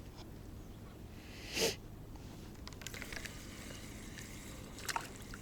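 A person's short sniff about one and a half seconds in, then faint rustling and small clicks.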